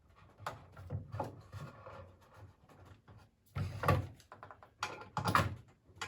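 Scattered light knocks and clatter of wooden swing parts being handled and set in place, with a few louder knocks in the second half.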